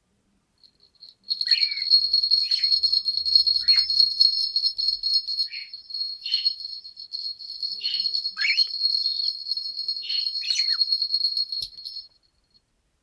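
Small bird singing: a continuous high, fast trill held for about ten seconds and broken by short falling notes, stopping suddenly near the end.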